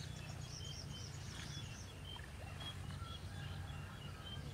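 Small birds chirping repeatedly in short high notes over a steady low rumble.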